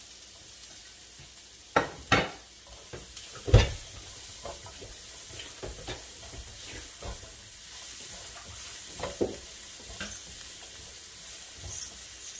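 Chopped onions and garlic sizzling in oil in a non-stick frying pan as a spatula stirs and scrapes them, with short knocks of the spatula against the pan. There are a few sharper knocks in the first few seconds, the loudest about three and a half seconds in.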